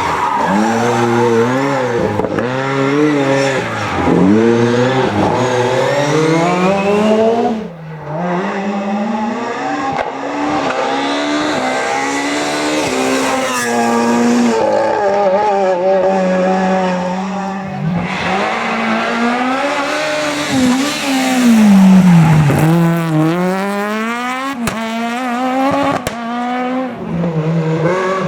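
Rally cars' engines revving hard, the pitch climbing and dropping again and again through gear changes and lifts as the cars pass one after another.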